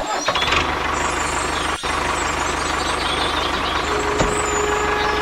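A small motor running steadily, with a brief break about two seconds in. A steady tone comes in near the end.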